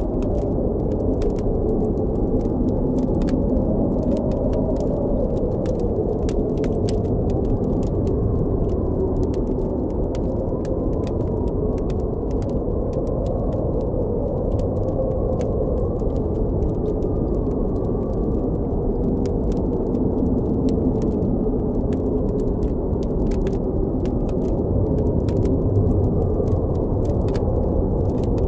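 Blizzard wind howling steadily, its pitch drifting slowly up and down, with a campfire crackling in frequent small sharp pops.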